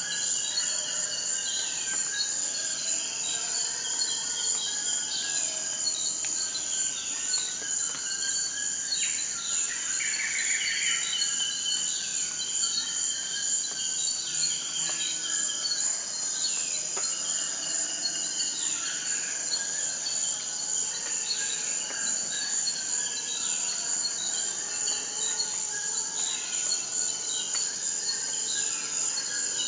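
A steady, unbroken high-pitched insect chorus, with birds calling over it in short downward-sliding notes every second or two.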